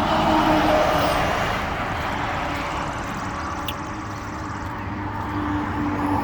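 Road traffic on a parkway: a car passes just after the start and fades away, then another swells in near the end.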